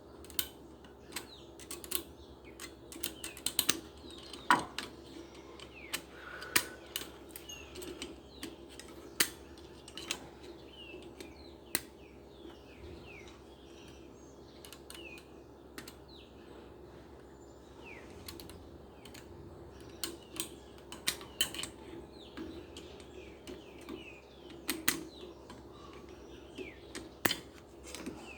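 Irregular small clicks and taps of parts being handled and fitted while a washing machine motor is put together. Faint bird chirps sound now and then.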